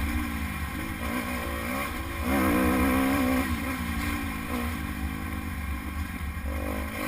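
Dirt bike engine running under way, its pitch wavering with the throttle; it revs up and gets louder about two seconds in, then eases off. Wind rumbles on the microphone throughout.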